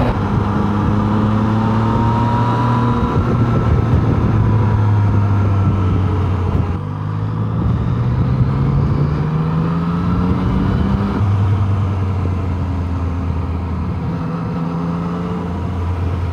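Yamaha Tracer 900's three-cylinder CP3 engine pulling hard under acceleration. Its revs climb and drop back at several upshifts, then hold steady at speed, with wind rushing past.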